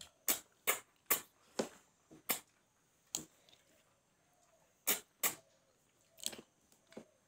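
Close-up mouth sounds of eating with the hand: about ten sharp lip-smacking and chewing clicks, about half a second apart at first, then a pause of over a second before a few more.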